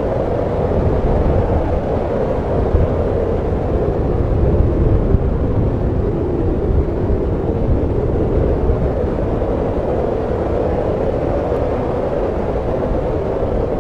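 Snowstorm wind blowing steadily, a low rushing rumble that swells and eases a little.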